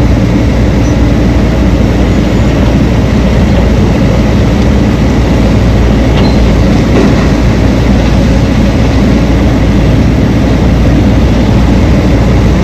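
Heavy diesel mining machinery running: a loud, steady low rumble that does not let up.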